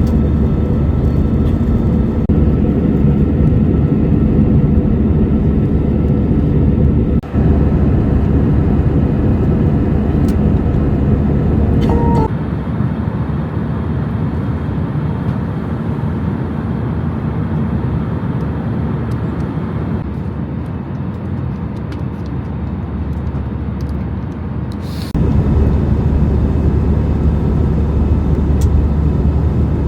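Steady engine and air noise of an Airbus A319 in flight, heard from the cabin. It drops in level abruptly about twelve seconds in and rises again near the end.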